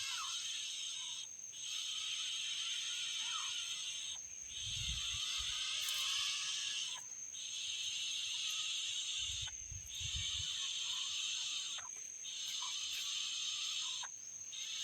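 Insects buzzing in a loud high chorus that comes in repeated pulses a second or two long with short breaks, over a steady high whine. A few short bird chirps and two brief low rumbles are also heard.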